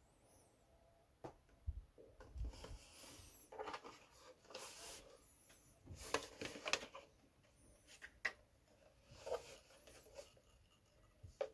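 Hands handling objects: scattered light clicks, knocks and brief rustles, with a couple of low thumps about two seconds in.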